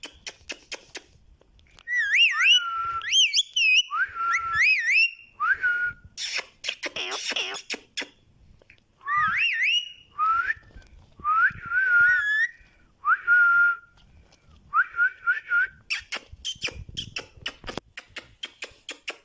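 Pet parrot whistling a string of short notes that swoop up and down in pitch, with runs of rapid clicking at the start and again near the end.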